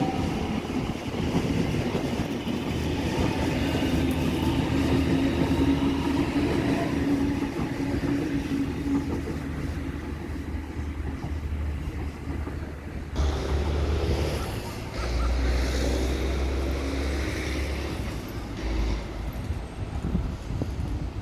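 A train running through a railway station on the tracks, a steady low tone in the first several seconds giving way to a heavy low rumble.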